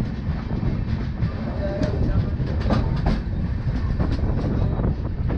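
Passenger train's LHB coach running on the track: a steady low rumble with scattered clicks from the wheels over rail joints.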